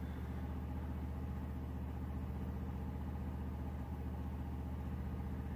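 Briggs & Stratton Q6500 inverter generator running steadily, a constant low engine hum with no change in speed.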